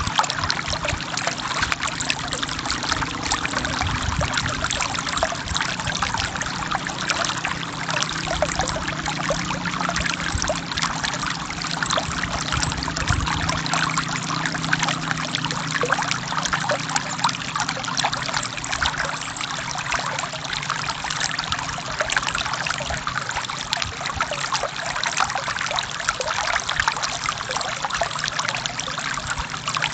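Forest stream flowing: a steady rush of trickling, babbling water with many small splashes and no let-up.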